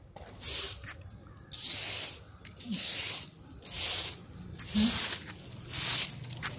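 Broom sweeping dry leaves and debris across the ground, six brisk hissing strokes about a second apart.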